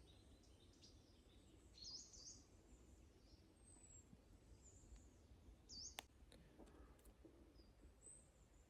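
Near-silent woods with a few faint, high bird chirps scattered through, and a single faint click about six seconds in.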